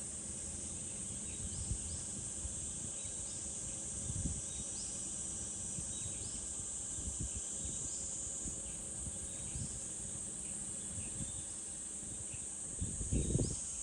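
Summer cicadas droning in a steady high-pitched chorus, with a short rising call repeating about once a second. Low wind rumble on the microphone comes in gusts and grows stronger near the end.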